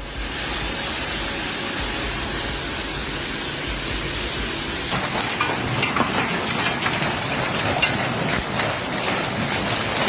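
Heavy rain pouring down in a steady hiss. About halfway through, the sound changes abruptly to rain with many sharp ticks of drops striking surfaces.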